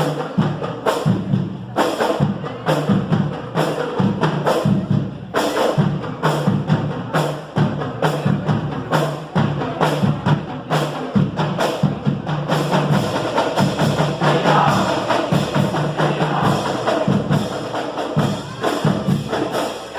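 A marching band playing, its drums beating a dense, steady rhythm of sharp strokes over low sustained notes that move between pitches.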